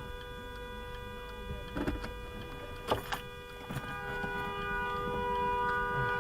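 A car horn sounding as a continuous held tone, joined by a second, lower horn note about four seconds in. A few short knocks sound around two and three seconds in.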